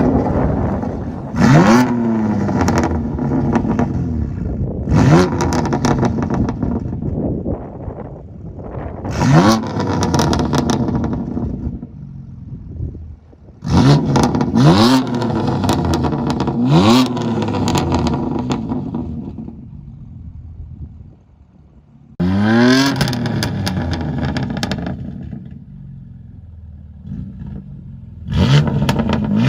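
BMW engine and exhaust being revved in sharp blips, about seven times, each rev climbing quickly and then falling back to a steadier, quieter running between them, with crackling clicks around the revs.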